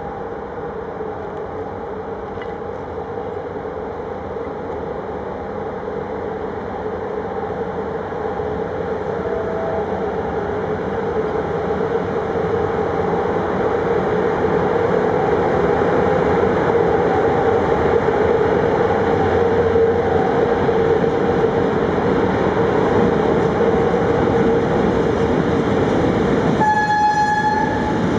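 Freight train coming closer, its running noise with a steady whine growing louder. Near the end comes one short horn blast of about a second.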